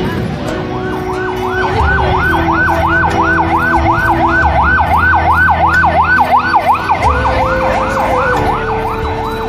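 Emergency vehicle siren in a fast yelp, its pitch sweeping up and down about three times a second, starting about a second in.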